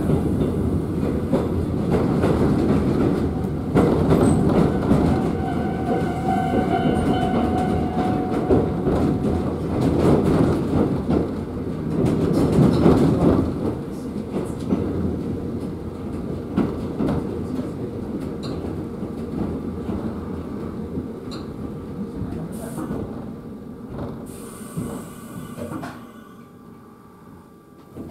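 Electric commuter train heard from inside the passenger car: rumble and clatter of the wheels on the rails. The noise slowly eases and drops off sharply near the end as the train brakes to a stop at a station.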